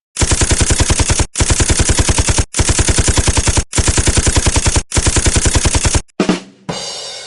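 Machine-gun sound effect: five bursts of rapid fire, about ten shots a second, each burst lasting just over a second. Near the end comes a short low thump, then a noisy tail that fades out.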